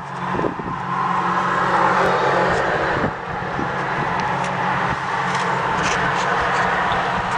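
A motor running steadily, a low hum under a loud hiss, starting right at the beginning and dipping briefly about three seconds in.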